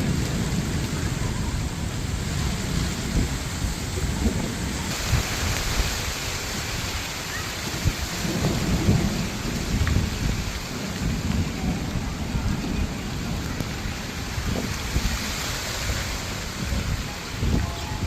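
Thunderstorm: steady hiss of heavy rain, with low rumbling that swells and fades in waves. The rain hiss grows stronger about five seconds in.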